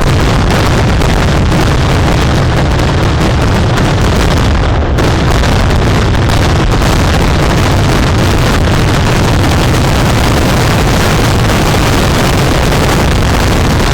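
Firework explosions in a dense, unbroken barrage, the blasts running together into one continuous, very loud din.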